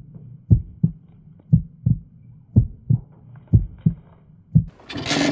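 Honda NS1's two-stroke engine, freshly fitted with a 62.9cc Daytona big bore kit, being kick-started: paired low thumps about once a second as it turns over. It catches and starts running near the end.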